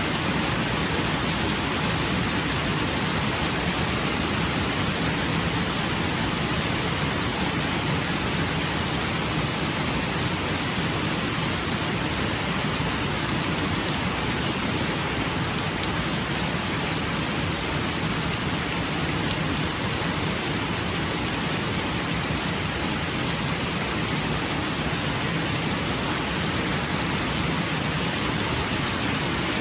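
Steady, even rain falling on surfaces, a dense continuous hiss with no breaks.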